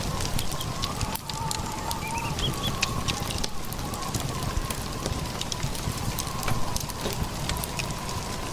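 Winter storm ambience: a steady rushing noise with many small sharp crackles, and a faint wavering whistle-like tone.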